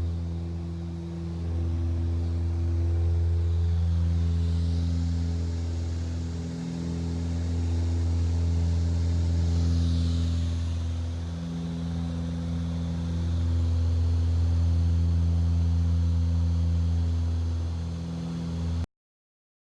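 An engine running steadily at a constant speed, its hum swelling and dipping every few seconds. It cuts off abruptly near the end.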